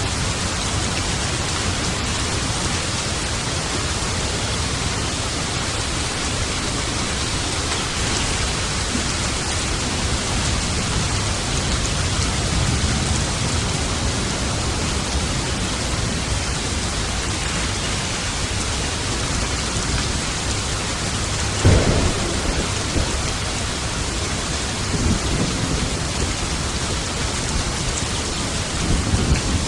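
Steady rain falling, with a sharp thunderclap and rumble about two-thirds of the way through and smaller thunder rumbles near the end.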